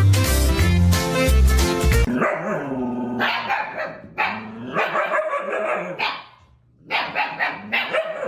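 Music with a heavy beat for about two seconds, then a dog's calls, about five of them, each bending in pitch, with a brief pause near the end.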